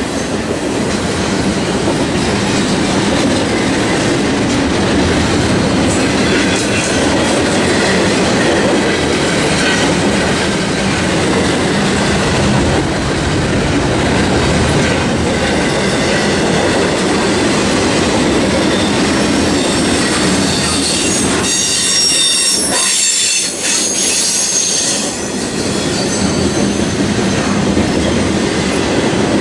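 Double-stack intermodal freight train's well cars rolling past, a steady loud rumble and clatter of wheels on the rails. About twenty seconds in, a high-pitched wheel squeal joins for a few seconds.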